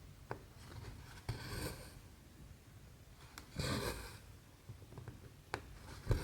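Needle and thread working through cross-stitch fabric: small sharp ticks as the needle pokes through the canvas, and two longer swishes as the floss is drawn through, about a second and a half and three and a half seconds in.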